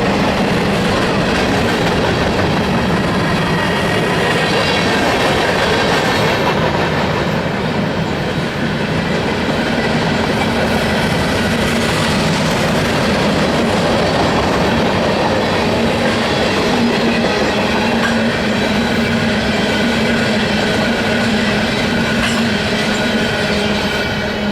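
Freight train cars rolling past, steel wheels clacking over rail joints with a steady rumble. Thin steady squealing tones ride over it, and the sound eases off slightly at the very end.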